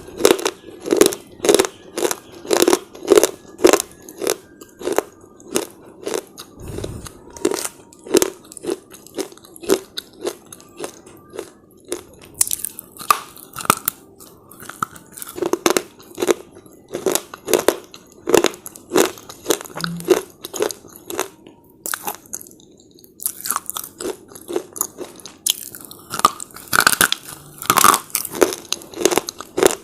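Close-up crunching and chewing of hard slate bar chips: sharp brittle crunches repeat one or two a second, with a short lull about 23 seconds in.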